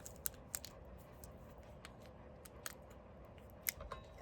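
Scattered light clicks and ticks of small plastic-wrapped drill-sharpener collets being handled, a sharper click about three and a half seconds in.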